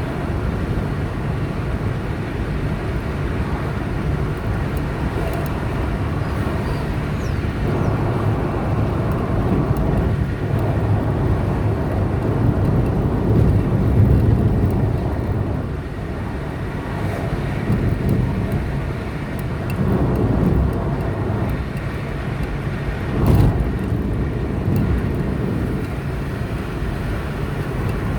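Car driving on a highway: steady tyre and engine rumble, swelling for a few seconds around the middle, with a brief louder rush a little after two-thirds through.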